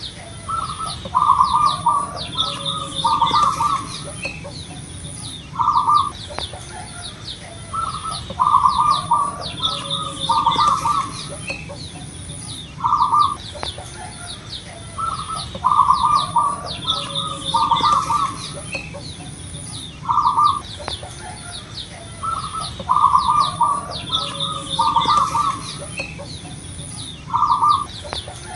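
Zebra dove (perkutut) cooing: repeated phrases of short, rolling notes every few seconds, with smaller birds chirping higher in the background.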